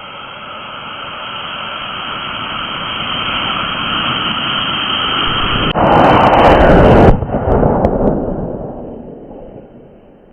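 Homemade sugar rocket motor hissing and growing steadily louder, then bursting with a loud blast about six seconds in that lasts just over a second before dying away: the rocket exploded and blew the paper airplane apart.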